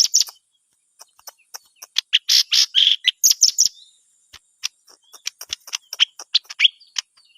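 Green leafbird (cucak ijo) singing a fast, varied string of sharp chirps and whistled notes, thickest in a loud run about two seconds in, with a short pause before the notes resume.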